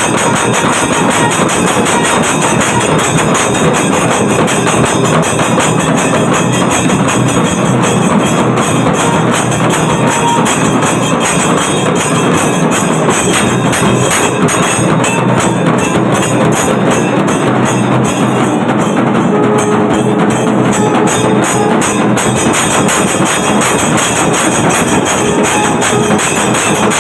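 Kailaya vathiyam, the Shaivite temple percussion ensemble, playing loudly with drums and clashing cymbals in a fast, unbroken rhythm.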